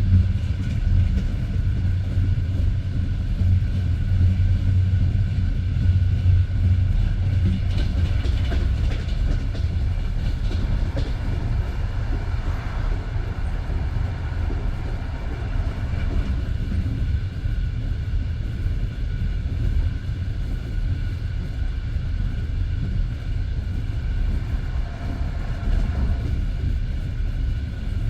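Passenger train carriage running at speed: a steady rumble of wheels on the rails, heard from inside the carriage.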